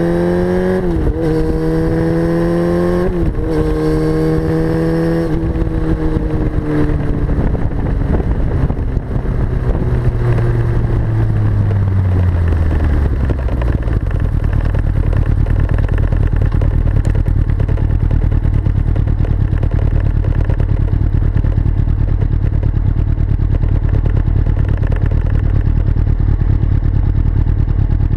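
2004 Yamaha R6's inline-four engine breathing through a full Akrapovic Evolution exhaust, revved up three times in quick succession. The revs then sink slowly over several seconds and it settles into a steady, throbbing idle.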